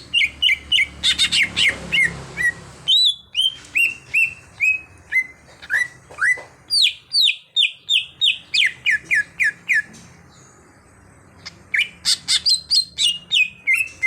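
Cucak hijau (green leafbird) singing: rapid runs of short, sweeping whistled notes, several a second. It breaks off for about a second and a half near the end, then starts again.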